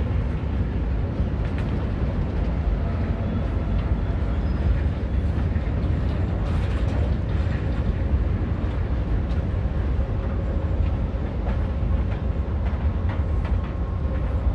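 Steelworks train of torpedo hot-metal cars rolling past close by: a steady, heavy low rumble of wheels on rail, with occasional light clanks and faint squeals.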